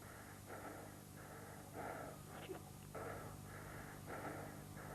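A man panting heavily after shouting, quick rasping breaths in and out about two to three times a second, over a faint steady electrical hum.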